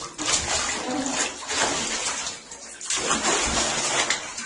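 Water running and splashing in a bathtub as a pet is washed. The sound is a steady rush that eases briefly about three seconds in.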